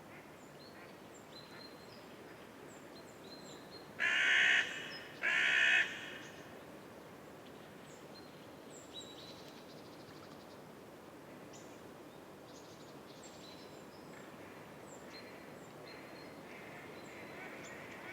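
A bird gives two loud calls in quick succession, each a little under a second long, over scattered faint high chirps of small birds and a soft outdoor background.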